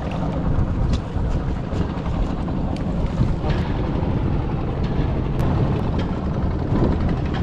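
Strong wind buffeting the microphone: a steady low rumble, with a few faint ticks.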